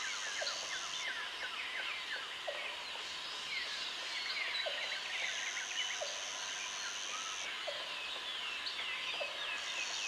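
Tropical forest ambience: many birds calling with quick downward-sliding notes, over a high, steady insect buzz that comes in spells of about two seconds. Short low calls recur about once a second beneath them.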